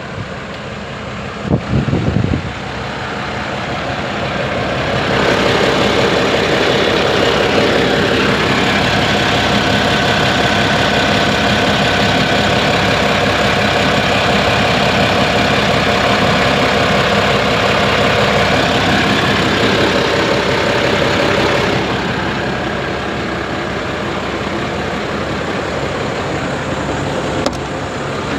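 Renault Midlum 220 DCI truck's diesel engine running steadily. About five seconds in it steps up to a louder, higher steady speed with a faint whine, and holds there until it drops back to idle near the end. A couple of brief knocks come about two seconds in.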